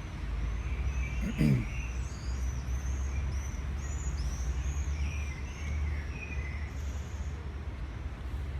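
Small birds chirping in a quick series of high, arching notes, over a steady low rumble.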